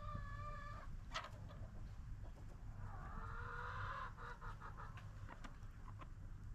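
Chickens calling: a drawn-out call at the start and a second, rougher call about three seconds in, with a few short clicks over a low steady rumble.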